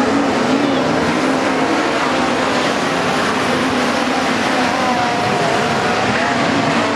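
Several midget race cars' engines running on track at speed, their pitches wavering up and down over a constant loud din.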